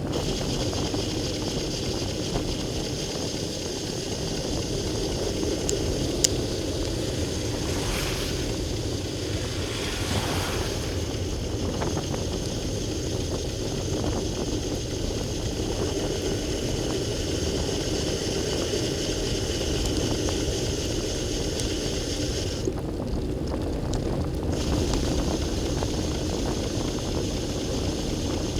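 Steady rain falling, a continuous even noise, with a single sharp tick about six seconds in.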